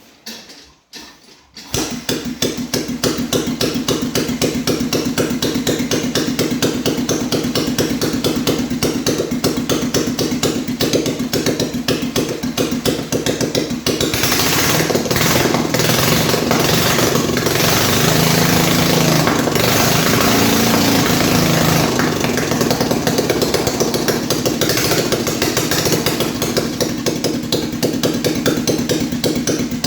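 The BMW R35's single-cylinder four-stroke engine starts about two seconds in and runs with a rapid, even firing beat. It runs faster and louder from about halfway, then drops back near the end, while it is being run to test for oil leaks.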